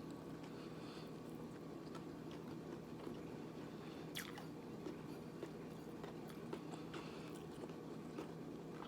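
Faint chewing of a mouthful of food, with a few soft clicks and smacks, over a low steady hum.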